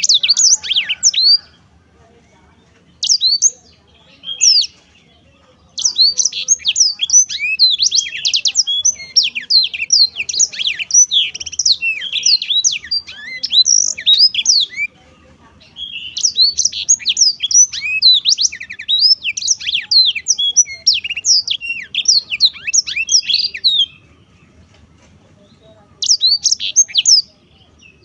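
Black-throated canary (blackthroat) singing in rapid, high twittering phrases. A few short bursts come first, then two long runs of song lasting about eight seconds each, and one more short phrase near the end.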